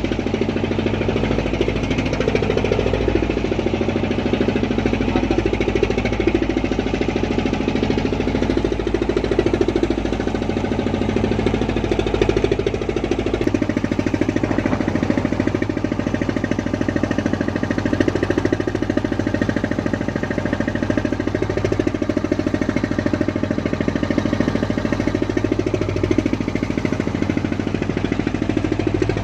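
A fishing boat's engine running steadily, with a fast, even beat.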